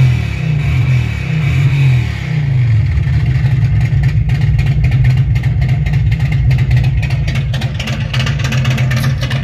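Harley-Davidson V-twin engine through its muffler, heard played back through Logitech speakers: the revs fall away over the first two or three seconds, then it settles into a steady, low, pulsing idle.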